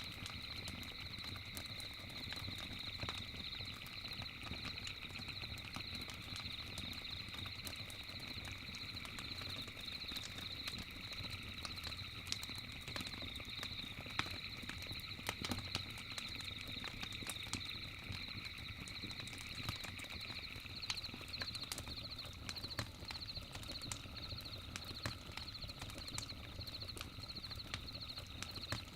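Cicadas buzzing steadily in a high, fast-pulsing drone, with a campfire crackling and popping in irregular clicks. A stream runs underneath as a low, even wash. A second, lower insect drone fades out about two-thirds of the way through.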